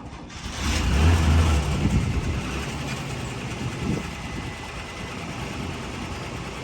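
1980 Chevrolet half-ton pickup's six-cylinder engine coming up in speed about half a second in and running loudest for the next second or so. It surges briefly twice more, then settles into a steady idle.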